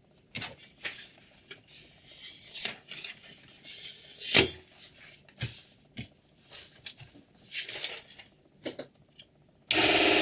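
Scattered clicks and short metallic scrapes of a steel kitchen knife being handled against hard surfaces. Near the end a mini electric knife sharpener's motor switches on suddenly and runs with a loud, steady hum.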